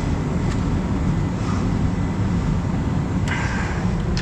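A vehicle engine idling steadily, left running to charge batteries. A single metallic clank rings out about three seconds in.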